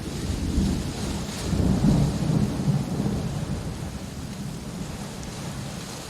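Steady rain hissing, with a low rumble of thunder that swells about two seconds in and dies away over the next couple of seconds.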